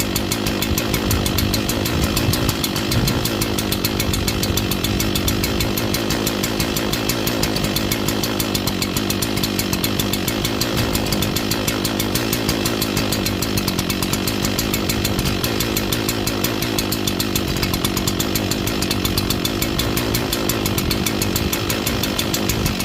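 Echo CS-4910 two-stroke chainsaw idling steadily while it warms up after a cold start, running a little lopey.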